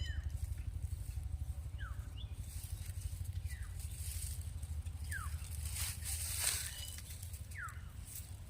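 A bird calling a short, clear whistled note that slides downward, repeated four times about every two seconds, over a steady low rumble.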